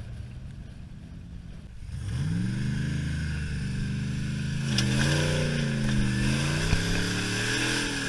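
Dodge 5.2 Magnum V8 running low at first, then revving up about two seconds in and holding. Its revs dip and rise again a couple of times near the end.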